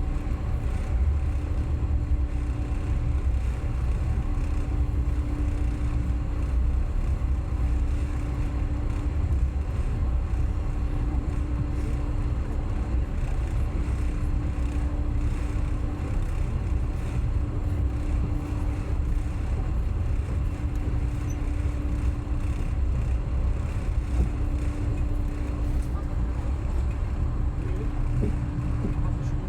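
Passenger train running between stations: a steady low rumble of the wheels on the track, with a faint hum that fades in and out every couple of seconds.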